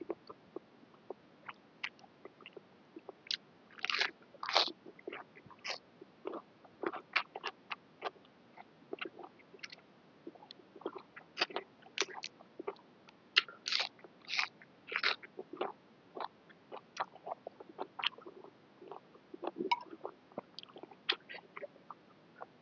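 A person eating a bowl of boat noodles: irregular chewing and crunching, with bursts of louder crunches about four seconds in and again around the middle.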